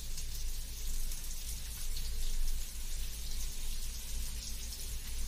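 Oil sizzling steadily on a hot tawa around semolina-coated bitter gourd slices shallow-frying, fresh oil just added over the flipped pieces.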